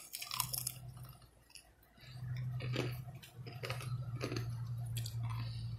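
Biting and chewing a crispy breaded fried chicken wing: irregular crunches of the breading and wet smacking mouth sounds, with a low steady hum under much of it.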